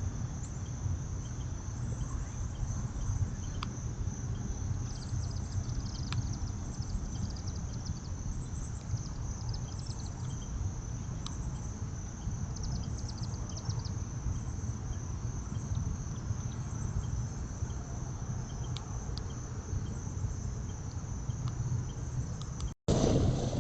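Insect chorus, crickets singing in a continuous high steady trill, over a low steady rumble. The sound cuts out for an instant near the end.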